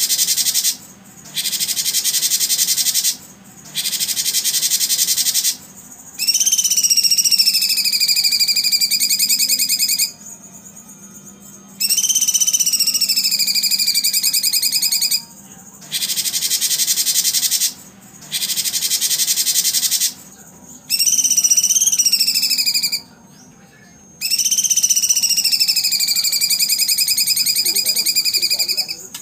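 Recorded birdsong and insect sounds played as training audio for caged contest songbirds. Stretches of dense, high buzzing trill, each one to four seconds long, alternate with long, wavering, whistled notes of about four seconds each.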